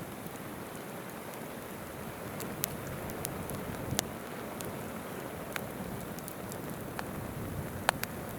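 Wood campfire crackling with scattered sharp pops, a close pair near the end, over the steady murmur of a shallow river.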